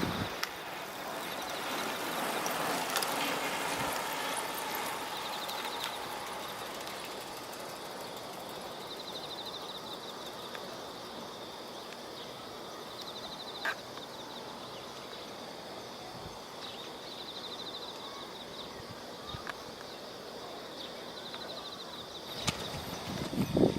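Outdoor riverside noise heard from a moving bicycle: a steady rushing noise, louder for a few seconds early on, with a short high-pitched trill that comes back every few seconds.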